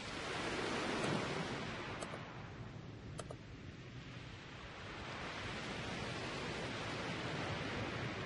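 Steady hiss that swells and eases, with two faint mouse clicks about two and three seconds in.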